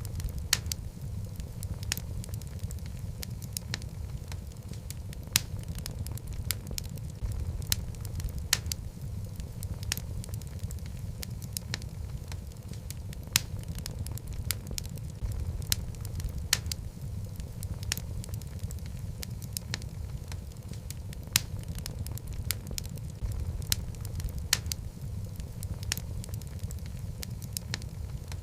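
Wood fire of burning logs in a fireplace crackling, with irregular sharp pops and snaps over a steady low rumble of the flames.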